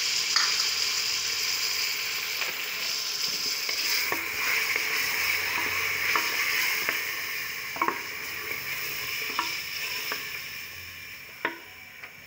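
Sliced onions and tomatoes sizzling in hot oil in a metal pot as a spatula stirs them, with about six sharp taps of the spatula against the pot. The sizzle fades away near the end.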